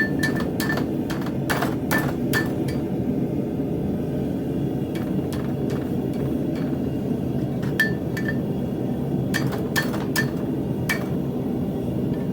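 Hand hammer striking steel on an anvil in scattered single blows and short runs, each with a brief metallic ring. A steady low hum runs underneath.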